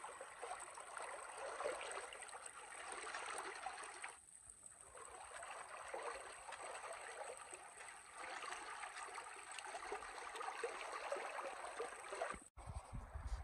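A creek flowing: a faint, even rush of water, with a brief dip about four seconds in and a sudden cut near the end.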